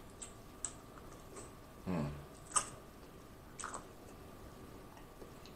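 Soft eating sounds: a few scattered mouth clicks and lip smacks while chewing, with a short closed-mouth hum about two seconds in.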